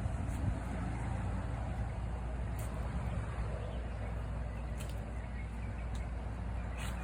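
A small engine running at a steady speed, a constant low hum, with a few faint clicks over it.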